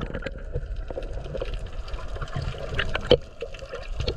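Seawater sloshing and splashing close to the microphone, with a sharp knock about three seconds in.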